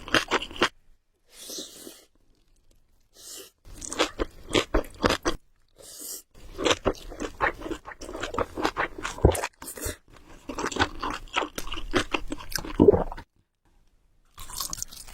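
A person chewing food close to the microphone, a rapid run of small crunches and mouth clicks. It comes in stretches, with brief pauses early on and again a couple of seconds before the end.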